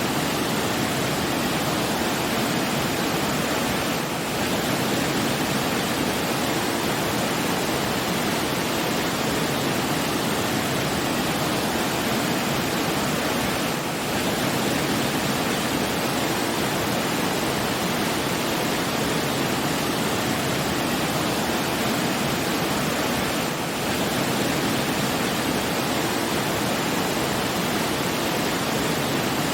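Steady, even rush of running water, with a brief dip in level about every ten seconds.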